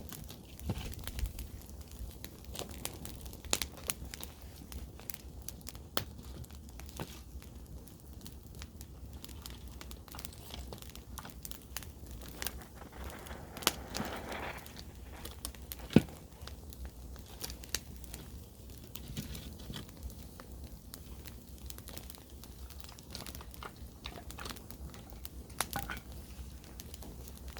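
Wood campfire crackling, with irregular sharp pops, the loudest about sixteen seconds in, over a low steady rumble.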